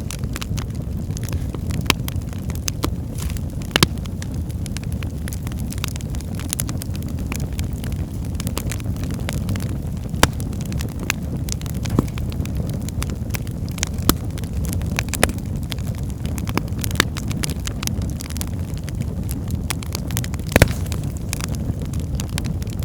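Wood fire burning in a fireplace: a steady low rush of flames with sharp, irregular crackles and pops from the burning logs, a few louder pops standing out.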